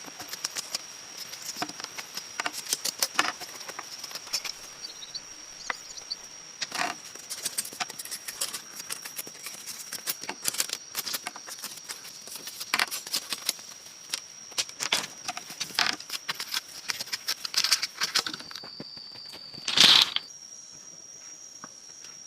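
Steady high-pitched insect drone, with many sharp clicks and crackles over it and one loud, brief noise near the end.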